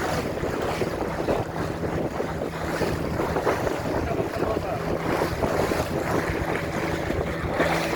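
Boat's motor running steadily with a low hum, under the rush of water splashing along the hull and wind buffeting the microphone.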